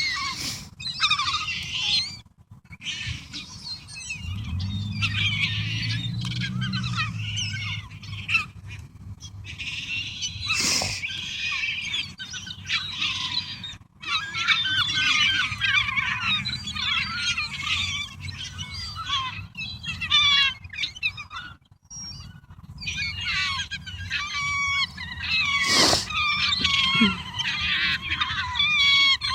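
A flock of gulls calling while feeding: many short, overlapping squawks and cries that keep going with brief gaps. A low hum runs for a few seconds near the start, and two sharp louder sounds stand out, one about a third of the way in and one near the end.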